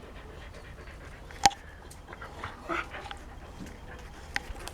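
Dog vocalising with short whines, and one sharp sudden sound about a second and a half in.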